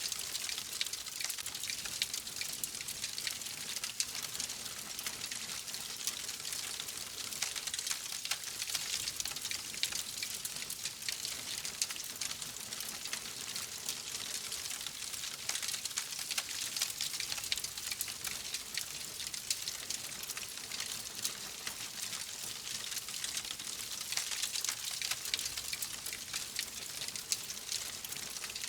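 Wood fire crackling steadily in a fireplace, a dense run of small pops and snaps over a constant hiss.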